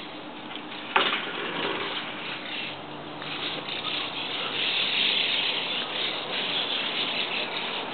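A large flock of birds perched on an overhead wire, chattering all at once, the massed calls swelling in the middle. A sharp click about a second in.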